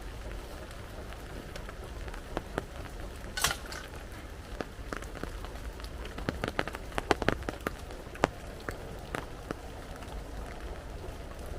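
Steady heavy rain, with irregular sharp ticks and cracks scattered through it that come thickest about six to eight seconds in.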